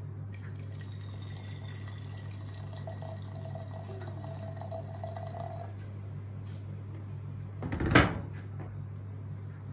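Water running into a kitchen vessel for several seconds, its tone rising as it fills, then stopping. About eight seconds in comes a single loud knock, over a steady low hum.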